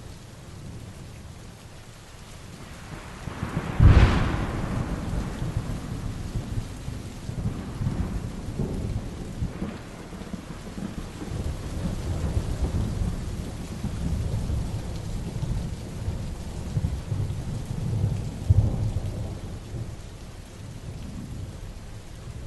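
Heavy rain falling steadily through a thunderstorm. About four seconds in a sharp thunderclap breaks into a long rolling rumble, with another loud peak of thunder about three-quarters of the way through.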